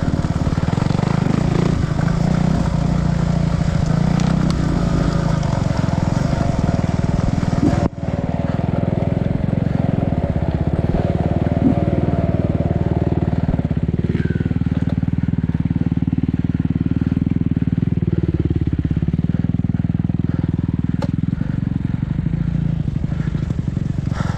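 Enduro dirt bike engine running continuously while riding, its revs rising and falling. The sound breaks off for an instant about eight seconds in.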